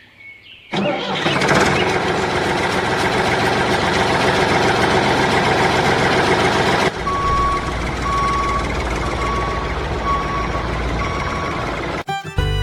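A vehicle engine running with a dense, noisy rumble, and from about seven seconds in a reversing alarm beeping at an even pace over it, about one beep every second.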